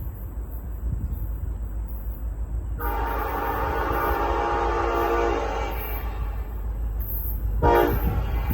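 Diesel freight locomotive's air horn sounding a chord of several tones over a low rumble: one long blast starting about three seconds in, then a short blast near the end. This fits the long-long-short-long grade-crossing signal.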